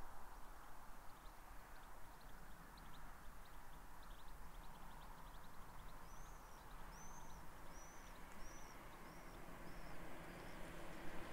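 A small songbird singing faintly: scattered high chirps, then a run of about seven short arched whistled notes, roughly two a second, each a little lower than the last. Under it a steady outdoor background rush that grows louder near the end.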